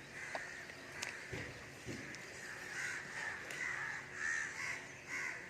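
Crows cawing repeatedly, several harsh calls following one another.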